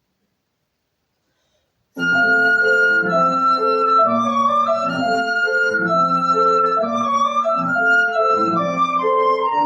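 Near silence, then about two seconds in a flute and piano begin together. The flute plays a slow, sustained melody with vibrato over the piano's chords.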